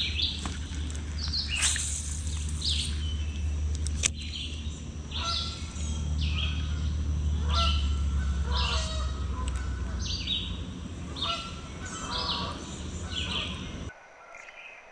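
Songbirds singing, a string of short, high chirps about once a second, over a steady low rumble that cuts off suddenly near the end. There are a couple of sharp clicks about two and four seconds in.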